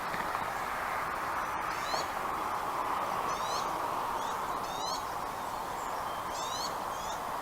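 Bald eagle giving short, high, rising chirps in quick runs of two to four, repeated every second or so over a steady hiss.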